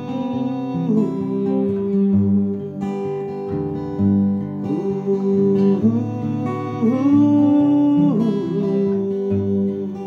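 Acoustic guitar music: an instrumental break between sung verses, with some notes sliding up and down in pitch.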